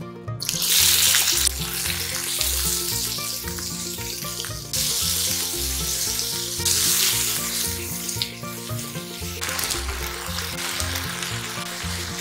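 Sliced pork, then noodles, frying in oil in a nonstick frying pan: loud sizzling starts about half a second in and surges afresh three times as food goes into the hot pan.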